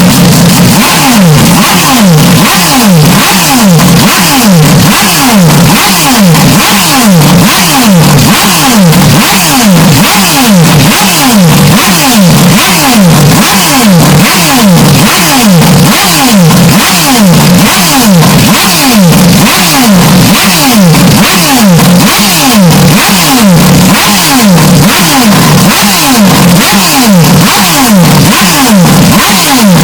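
Heavily clipped, distorted engine sound from a racing car: a falling engine note repeats evenly, about one and a half times a second, and never lets up.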